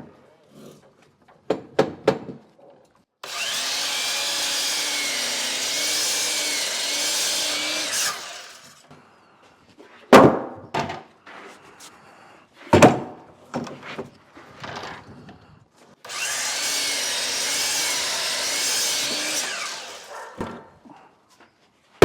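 A power saw run twice, about five seconds each time, its pitch wavering as the blade cuts through wood. Between the two cuts come a couple of sharp, loud knocks and some clicks as the wood is handled.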